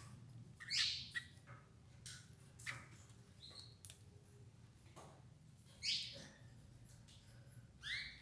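Domestic canaries giving short calls, three louder ones about a second in, near six seconds and near the end, with faint clicks between.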